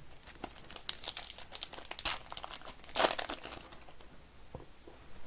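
Crinkling of trading-card pack wrappers being handled and opened, in irregular rustles and crackles.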